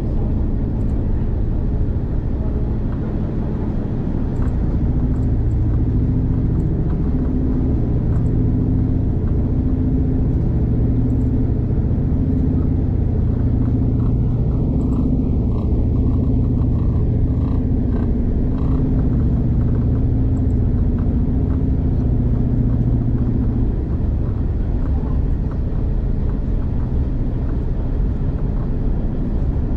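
V/Line passenger train running along the line, heard from inside the carriage: a steady low rumble with a droning tone that fades out near the end, and faint light clicks.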